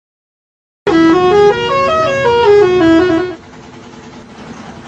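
Musical vehicle horn playing a short tune of stepped notes that climb and then fall back down, lasting about two and a half seconds and cutting off suddenly, leaving quieter traffic noise.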